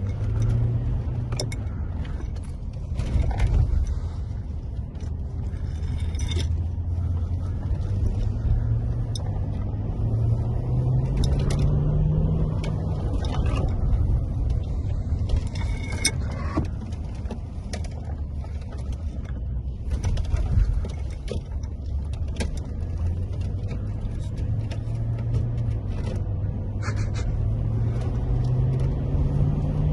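Land Rover Discovery 4's 4.4-litre TDV8 diesel engine running under way while being run in, its pitch rising slowly twice as the vehicle gathers speed. Scattered light knocks and rattles are heard over it.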